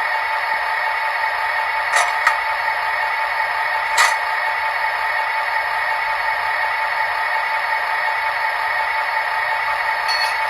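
H0-scale model of an FS E444R electric locomotive with a digital sound decoder, giving a steady whirring hum through its small speaker. Sharp clicks come about two seconds in, again just after, and once more about four seconds in.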